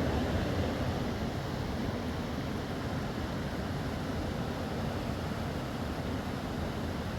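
Steady rushing of a fast mountain river, an even noise without breaks.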